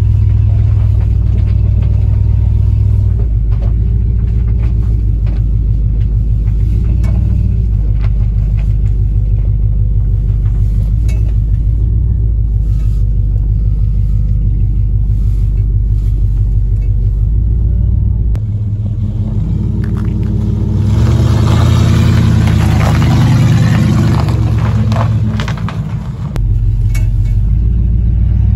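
A 1955 DeSoto Firedome's Hemi V8 running as the car is driven, heard from inside the cabin as a steady low rumble. About twenty seconds in it grows louder and fuller for about five seconds under acceleration, then drops back to a steady run.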